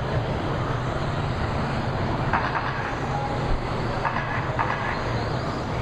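Radio-controlled racing trucks running on the track: a steady mix of motor and tyre noise, with a few short louder clatters along the way.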